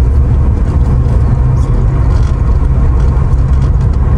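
Mercedes R129 SL500 driving at steady speed, heard from inside the car: a steady low rumble of engine and road noise.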